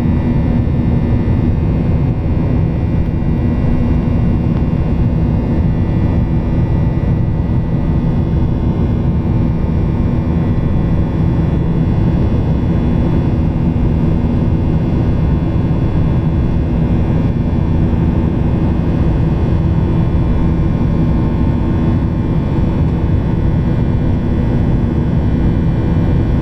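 Steady jet airliner cabin noise: an even, loud drone of engines and airflow with a constant low hum, unchanging throughout.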